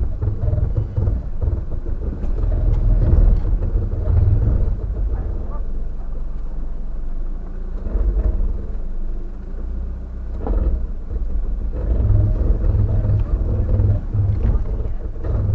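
A 4x4 vehicle's engine running at low revs as it drives slowly over a rough track, with a couple of short knocks from the bumpy ground.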